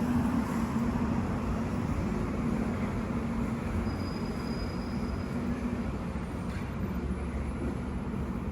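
Street traffic: a motor vehicle's steady low hum over road noise, slowly fading.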